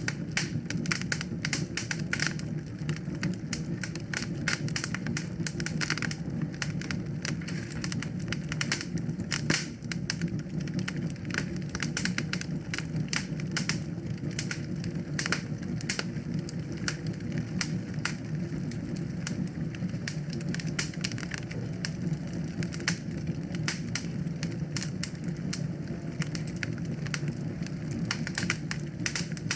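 Wood fire in a fireplace burning, with frequent irregular crackles and sharp pops over a steady low rush of flame.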